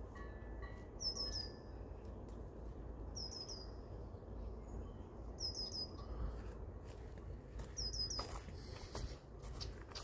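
A bird calling: a short phrase of two or three quick high chirps, repeated four times about two and a half seconds apart, over a faint low rumble.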